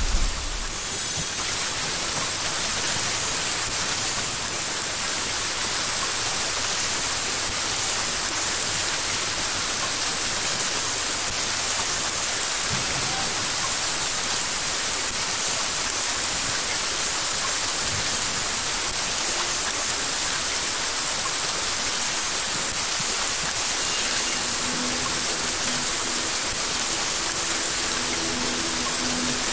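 Steady rain falling, an even hiss of drops on grass and wet pavement. The low rumble of a thunderclap dies away in the first second.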